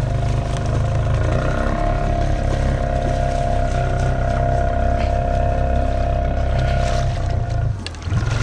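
Honda Rancher 420 ATV's single-cylinder four-stroke engine running at a steady low speed, its level dipping briefly near the end.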